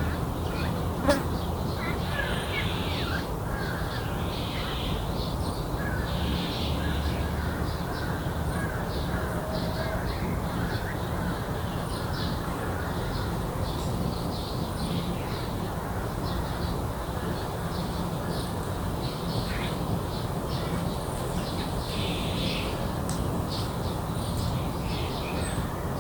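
Outdoor garden ambience: crows cawing now and then over a steady bed of insect buzzing, with one sharp click about a second in.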